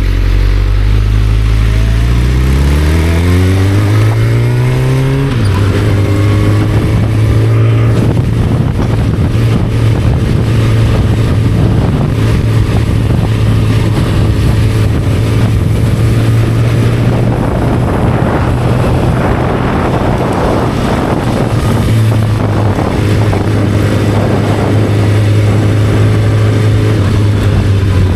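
Motorcycle engine under way: it revs up steadily for about five seconds, drops in pitch at an upshift, then holds a steady cruising note.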